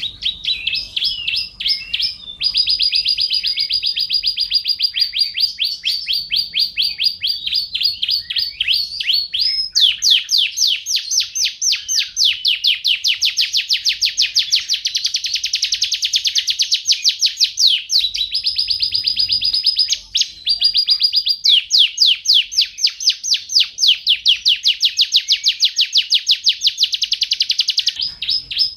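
Domestic canary singing a long, continuous song of fast trills, each made of rapidly repeated high notes. The bird switches from one trill to another every few seconds, with brief breaks between them.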